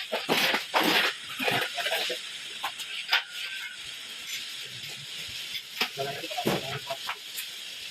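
Scattered sharp clicks and knocks with indistinct voices over a steady hiss.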